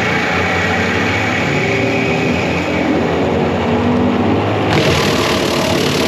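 John Deere 333G compact track loader's diesel engine running steadily under load. About three-quarters of the way through, a harsher, hissier noise joins it.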